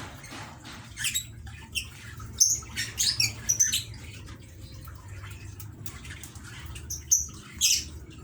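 Lovebirds giving short, high-pitched chirps and squeaks in scattered clusters, over a low steady hum.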